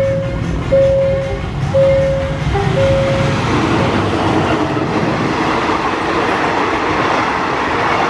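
Level-crossing warning tone beeping about once a second, stopping about three seconds in, as the rumble of an approaching train builds and grows louder.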